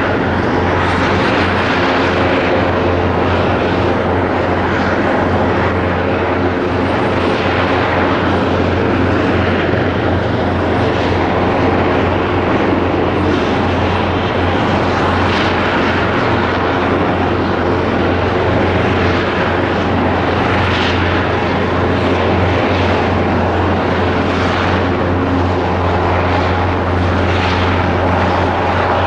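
Airbus Helicopters EC225LP Super Puma twin-turbine helicopter running steadily, a continuous low rotor hum under turbine noise.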